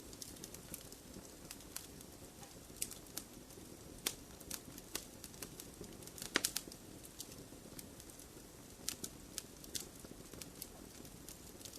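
Wood fire crackling in a fireplace: irregular sharp pops and snaps over a low steady rush of burning, with one louder cluster of pops about six seconds in.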